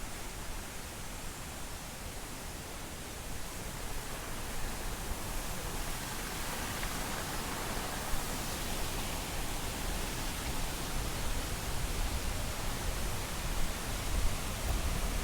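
Steady rush of the Triberg waterfall, a dense hiss of falling water with a low rumble under it, growing louder a few seconds in.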